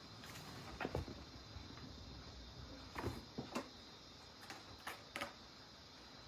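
Scattered light taps and knocks, about six in all and loudest around one second in and again around three seconds, over a faint steady hiss: cats playing and moving about in a small room.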